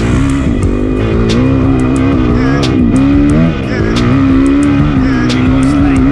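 Dirt bike engine running on the track, its pitch rising and falling with the throttle, with a brief drop about three and a half seconds in.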